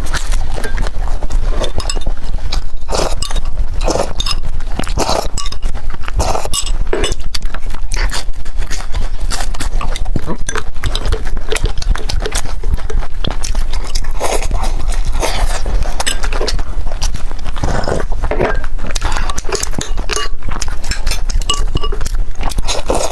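Close-miked chewing and crunching of crispy fried dough sticks (youtiao), with irregular crackling bites and mouth noises over a steady low hum.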